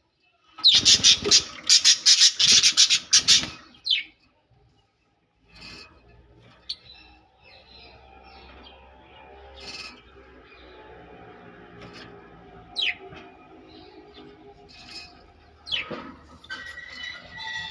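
Pet love birds, small parrots, chattering: a loud burst of rapid, shrill chirps lasting about three seconds near the start, then quieter scattered chirps and a few quick sweeping calls, picking up again near the end.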